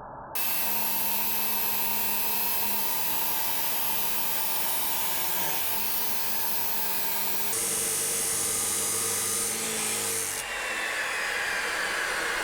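An abrasive cut-off wheel cutting through steel flat stock. It starts abruptly and runs steadily, its tone changing partway through. Near the end its pitch falls steadily as the wheel spins down.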